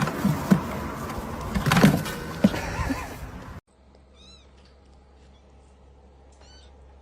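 A loud, noisy stretch with several knocks cuts off suddenly, followed by two short high-pitched cat mews about two seconds apart in a quiet room.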